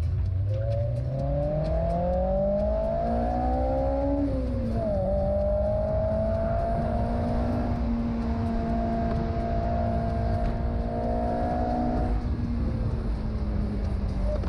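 Honda S2000's four-cylinder engine accelerating, its pitch rising steadily for about four seconds. It drops sharply at a gear change, then holds a steady note while cruising.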